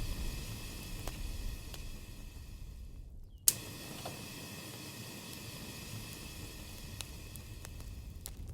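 Campfire burning with a low rumble and a steady hiss, with scattered small crackles. About three seconds in, the sound cuts out briefly and comes back with one sharp, loud pop.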